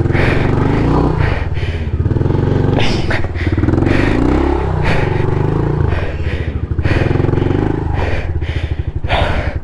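2023 Honda CRF110 pit bike's small single-cylinder four-stroke engine revving up and down in repeated surges, working under load up a steep rocky climb. Near the end it drops to a slow, chugging idle.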